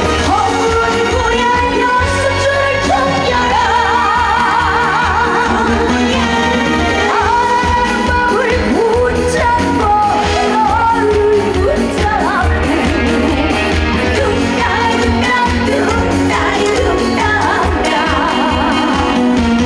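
A female trot singer singing live with strong vibrato over an upbeat trot backing band with a steady beat.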